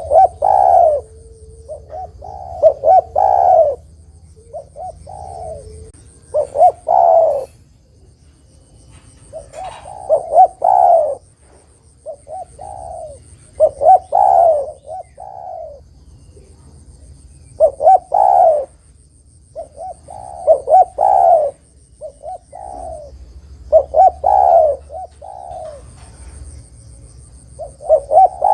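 Spotted dove (derkuku) cooing: a phrase of several coos comes round every three to four seconds.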